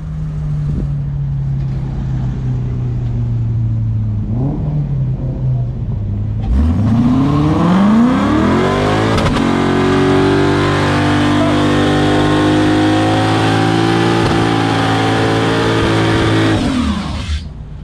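Car engine idling, with a short blip of the throttle about four seconds in, then revved up sharply about six seconds in and held at high revs for roughly ten seconds before dropping back to idle near the end.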